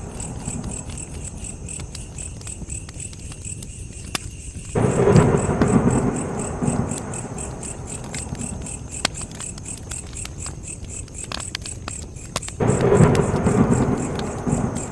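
Campfire crackling with sharp pops, while crickets chirp steadily in the background. Twice, about five seconds in and again near the end, a sudden low rumble swells up and fades over a couple of seconds.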